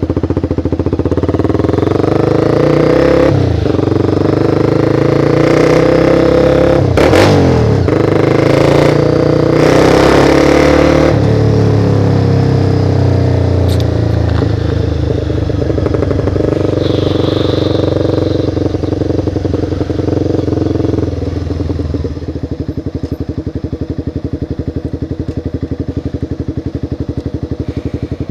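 Motorcycle engine heard on board while riding. The revs dip and climb again twice in the first several seconds as gears change, run steadily, then fall to a lower, quieter note about three-quarters of the way through.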